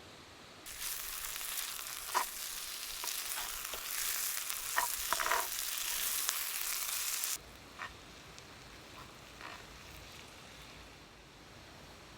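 Pepper rice sizzling hard in a hot skillet, with clicks and scrapes of stirring. The sizzle starts about a second in and cuts off suddenly after about seven seconds, leaving a few faint scrapes.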